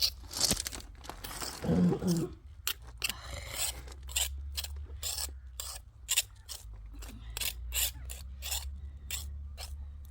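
A series of short scraping strokes, irregular but roughly two a second, over a steady low hum.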